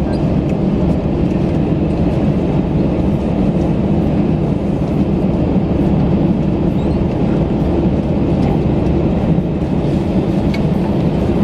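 Steady rumble of cabin noise inside an Airbus A319 on the ground after landing, with a few faint clicks and rattles.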